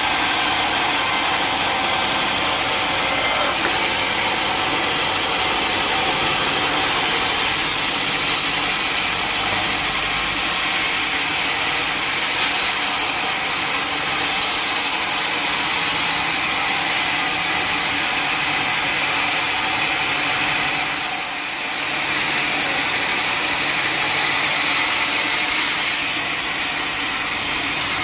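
Sawmill saw cutting steadily through a mahogany log, with a continuous rasping noise. The sound dips briefly about three quarters of the way through.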